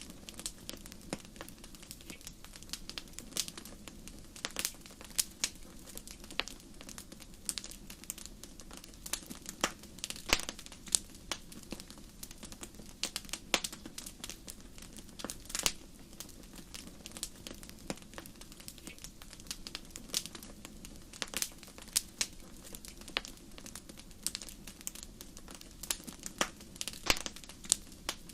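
Wood fire crackling in a fireplace: irregular sharp pops and snaps, several a second, over a low steady rush.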